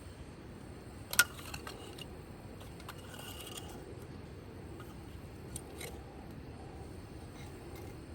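Wood fire crackling, with one sharp pop about a second in and a few fainter snaps later, over a steady low background noise.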